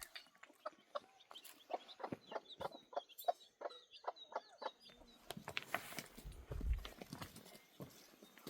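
Chickens clucking in a quick series of short clucks, with faint high chirps between them partway through. A low thump comes about two thirds of the way in.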